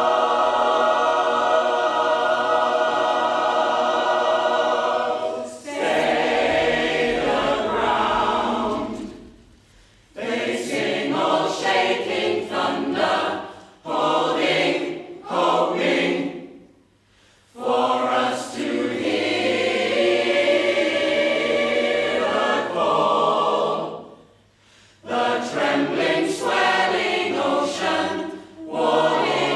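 Choir singing: a long held chord, then shorter phrases broken by brief pauses.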